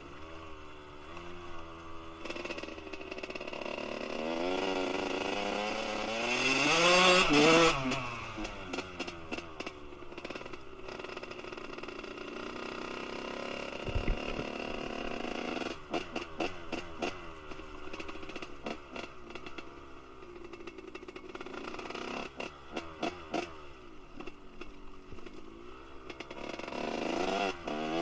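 Kawasaki KX125 two-stroke motocross engine with a Pro Circuit R-304 shorty silencer, revving up and falling back repeatedly. It peaks loudest about seven seconds in, then runs through a stretch of quick throttle blips before climbing again near the end.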